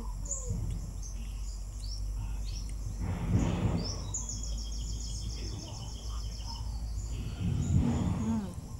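Birds chirping, with a rapid trill of repeated high notes starting about four seconds in and lasting a couple of seconds. Two louder, muffled bursts of noise come around three seconds in and near the end.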